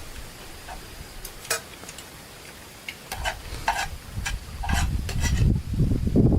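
A cooking utensil scraping and clicking against a pan in a series of short, sharp strokes, with faint sizzling. Near the end a low rumble builds up and becomes the loudest sound.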